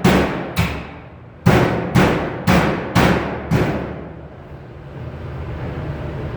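Hammer blows on sheet metal, sharp ringing strikes about two a second: two, a short pause, then five more. A steady low hum remains after the hammering stops.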